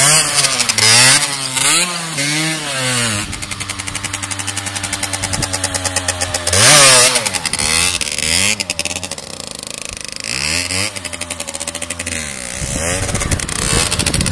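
Small motorcycle engine revving up and down again and again, with a steadier stretch in the middle and a sharp loud rev about seven seconds in. The rider is working the throttle to hold the bike in a wheelie.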